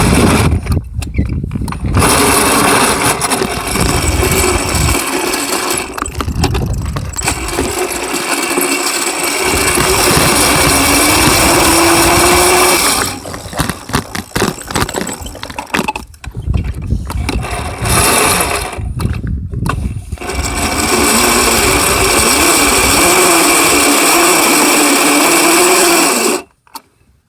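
A dirt bike being ridden, its motor whining with a tone that rises as it speeds up, under heavy wind rush on the microphone. The sound cuts out briefly several times.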